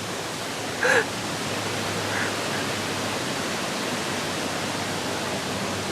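Steady, even rushing noise, with a short voice sound about a second in.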